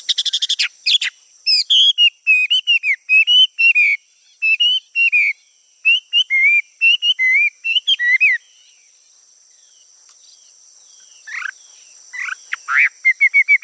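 A male songbird singing loud, clear whistled notes in quick varied phrases, pausing about eight seconds in and then starting again with rougher notes and a fast run of repeated notes near the end. Two steady high-pitched tones run underneath.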